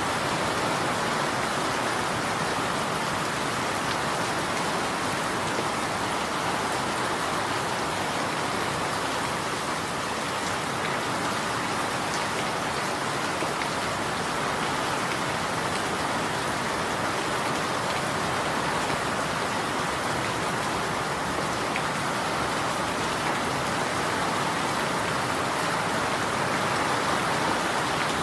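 Steady rain falling, an even hiss of many drops on a surface with no let-up and no thunder.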